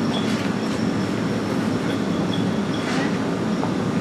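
Steady low rumble with faint high-pitched squeals and a few scattered clicks, like heavy machinery or rail traffic going by.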